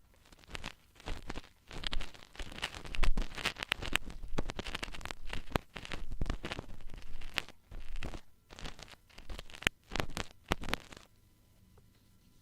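Ear-cleaning tools scratching and rubbing at an ear in a dense run of quick scratches and clicks, which stop about eleven seconds in.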